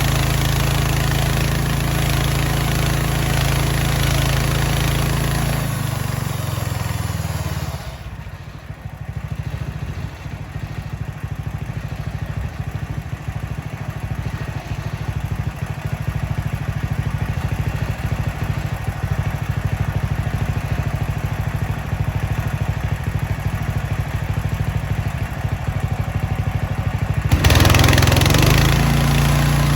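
Small gasoline engine of a Mechmaxx band sawmill running at high throttle, then throttled down about six seconds in to a steady, pulsing idle, and revved back up near the end.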